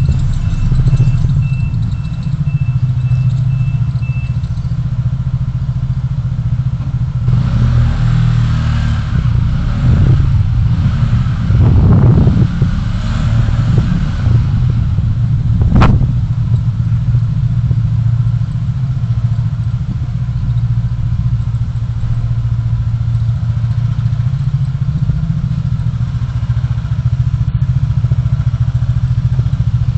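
Traffic driving noise from a dashcam: a steady low engine and road rumble. A faint repeated high beep sounds in the first few seconds, passing traffic swells louder for several seconds around the middle, and a single sharp click comes just after.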